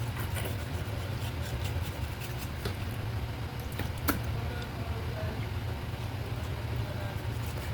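A steady low hum with scattered light clicks and one sharper click about four seconds in.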